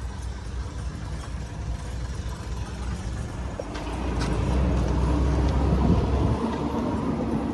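A motor vehicle's engine rumbling low, growing louder about four seconds in and easing off again near the end.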